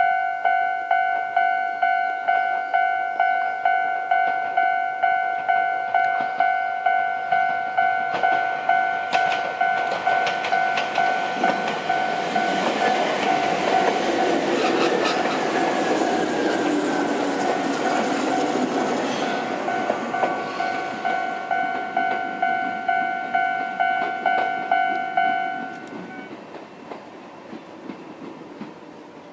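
Level-crossing warning bell ringing at about two strokes a second while a Chichibu Railway 7500 series electric train passes, its wheels clicking over the rail joints for about ten seconds in the middle. The bell stops a few seconds before the end.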